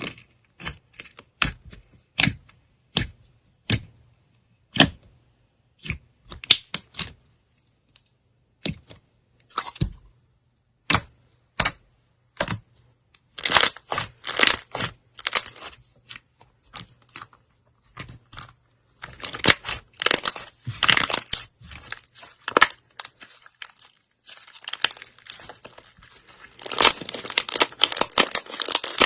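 Slime being squeezed, stretched and poked by hand: a run of sharp, irregular pops and crackles, coming in thick crackling bunches in the second half.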